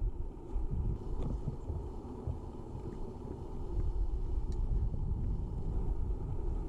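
Wind buffeting the microphone: a steady, uneven low rumble, with a few faint ticks.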